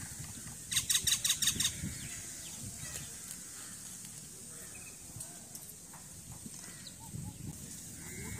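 Birds calling outdoors: a burst of about eight rapid, harsh rattling notes about a second in, then faint scattered calls over a steady high hiss.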